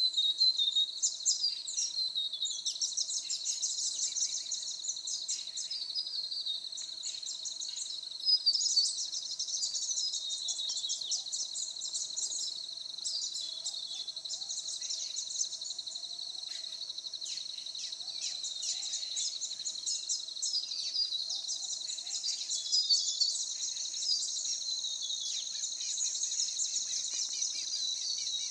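Forest birds singing in rapid trills and chirps over a steady high-pitched insect drone.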